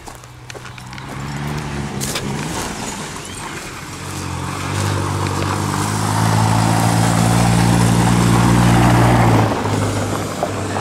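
A truck driven hard: its engine holds a steady high note and grows louder as it comes closer, loudest about two-thirds of the way in, then drops off sharply about a second before the end.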